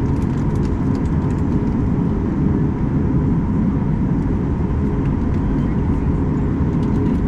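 Steady cabin drone of a Boeing 737 MAX 8-200 with its CFM LEAP-1B engines running at low, taxi-level power: a deep even rumble with a steady hum over it and a few faint clicks.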